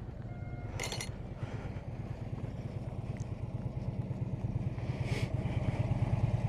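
Harley-Davidson V-twin touring motorcycle engine running steadily while riding, a low rumble that slowly grows louder. There is a brief sharp rattle about a second in.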